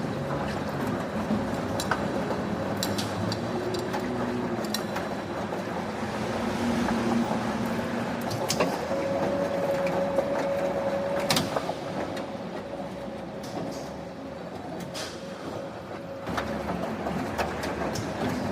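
Factory machinery running as a steady, dense industrial din, with scattered sharp metallic clicks and knocks and a brief humming tone near the middle.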